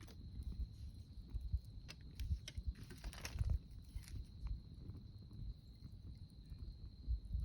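Wood campfire crackling, with scattered sharp pops clustered in the middle, over a low rumble and a faint steady high tone.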